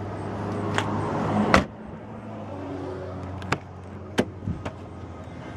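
A car panel slammed shut with a single loud thump about a second and a half in, after which the steady hum behind it becomes quieter; then a few sharp clicks follow.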